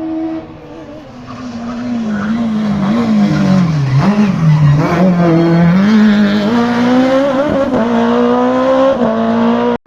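Racing car engine running hard, growing louder over the first few seconds. Its pitch dips about four seconds in, then climbs in steps with gear changes and throttle. The sound cuts off abruptly near the end.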